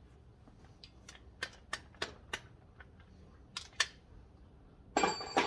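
Light metallic clicks of a steel socket and hand tools being handled, about eight of them over the first four seconds, then a louder clatter near the end.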